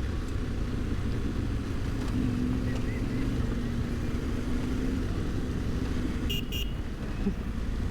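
Adventure motorcycle engine running steadily under way, with a rumble of engine and ride noise and a held engine note for a few seconds. Two short, sharp clicks come about six seconds in.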